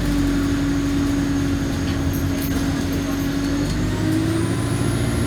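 Engine of an Alexander Dennis Enviro200 single-decker bus running steadily, a continuous low hum with a steady tone that steps up slightly in pitch about four seconds in.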